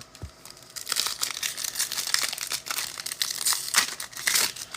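Foil wrapper of an NFL trading-card pack crinkling and tearing as it is ripped open by hand: a dense run of crackly rustling with many sharp ticks.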